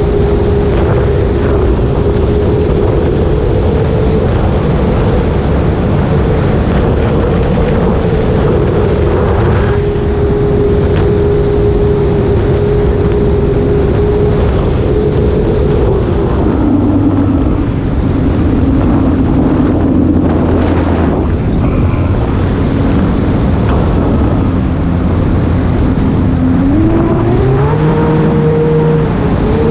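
Electric motor and propeller of an E-flite Air Tractor RC plane in flight: a steady whine over a loud rushing noise. Past the middle the pitch drops as the throttle comes back, and it rises again near the end as the throttle goes up.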